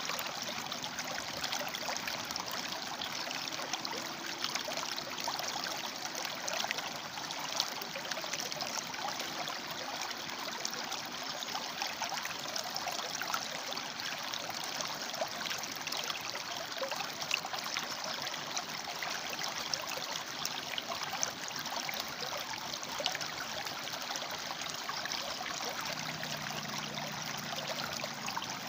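A shallow river running over and between rocks: a steady rush of water with constant small splashes and trickles.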